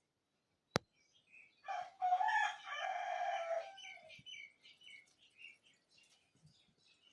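A rooster crowing once, a call of about two seconds, followed by small birds chirping in quick high notes. A single sharp click comes just before the crow.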